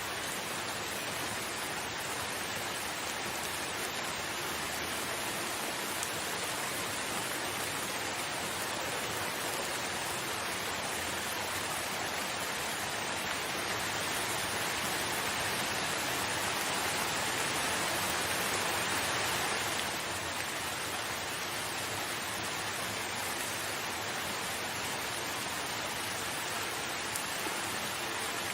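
Steady rain falling, an even hiss that swells slightly louder in the middle and eases back down about two-thirds of the way through.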